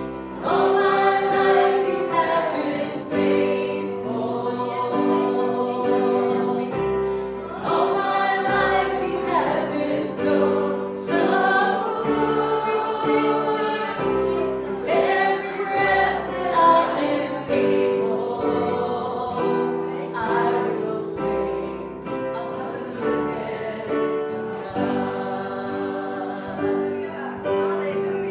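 A gospel hymn sung by several voices over sustained keyboard chords.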